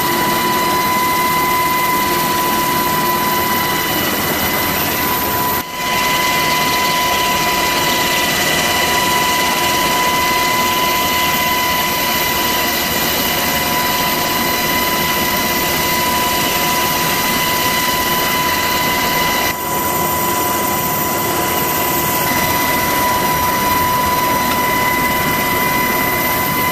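Loud, steady engine noise with a constant high whine over a dense rumble, carrying on unchanged through two brief dips.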